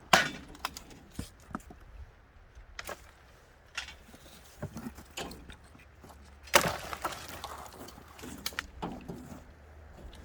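Dry twigs and branches for kindling being broken up: two sharp cracks of splintering wood, one at the start and one about two-thirds of the way in, each trailing off in a short crackle, with lighter snaps and knocks between.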